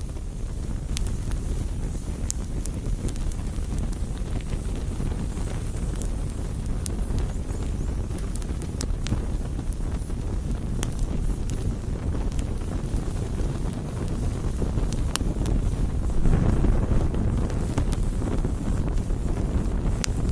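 Wood campfire burning, with scattered sharp crackles and pops over a steady low rumble of wind on the microphone. The rumble swells for a second or two about sixteen seconds in.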